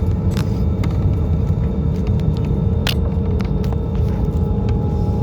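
Airbus A320's jet engines and airflow, a steady deep rumble with a faint steady hum and a few light clicks scattered through it.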